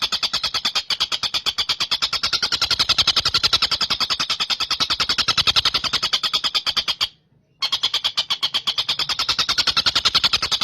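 Tengkek buto (stork-billed kingfisher) calling in a fast, continuous chattering rattle of short, sharp notes, about ten a second, cut off briefly about seven seconds in before resuming.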